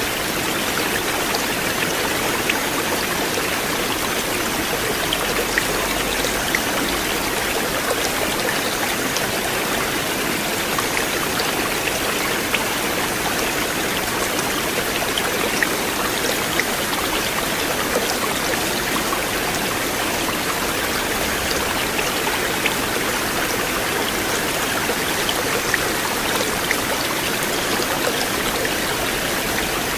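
A flowing river, its water rushing steadily, with scattered small splashes and drips.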